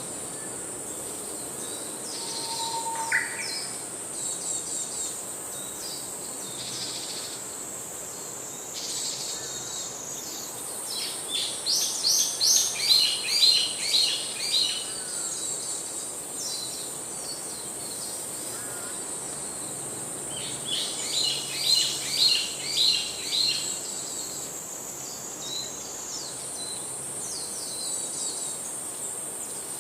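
Outdoor birdsong over a steady high-pitched insect buzz. Two loud runs of quick, repeated bird notes come a few seconds each, the first about a third of the way in and the second past the middle, with scattered chirps between.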